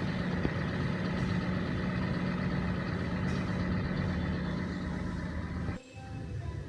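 Toyota Sienta engine running steadily, smooth, with a new auto tensioner and fan belt fitted. About a second before the end the sound drops abruptly to a quieter steady hum.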